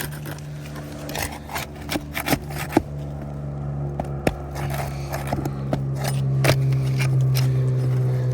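Sharp scrapes and knocks of a tool working under roof shingles to pry out a nail. A low engine hum, as of a passing vehicle, grows louder through the second half.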